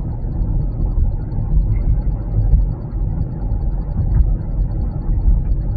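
Steady low road and tyre rumble heard inside the cabin of a Waymo driverless Jaguar I-Pace electric taxi driving at city speed, with no engine note. A faint, rapid, high-pitched ticking runs under it.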